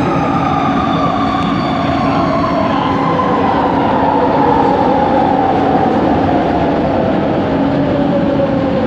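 Light rail train's traction motor whine heard inside the coach, falling steadily in pitch as the train slows, over a steady low hum and rolling rumble. It is the unusual motor noise reported on this train set.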